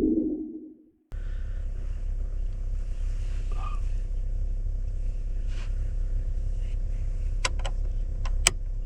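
A whoosh fades out in the first second and is followed by a brief silence. Then a vehicle engine idles with a steady low rumble, with a few sharp clicks near the end.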